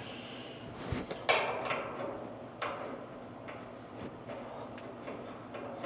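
A few light knocks and clicks of metal parts being handled and adjusted during a truck hood hinge fitting: a louder knock about a second and a half in, another just before the middle, and fainter ticks between.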